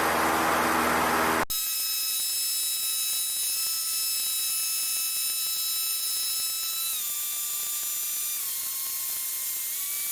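Cessna 152 engine and cabin noise through the headset audio, cut off abruptly about a second and a half in. What remains is a high electrical whine of several steady tones that steps down in pitch three times, the whine following the engine's speed as power comes back.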